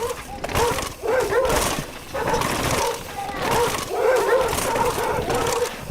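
An animal whining in a series of wavering calls, each lasting under a second, with short breaks between them.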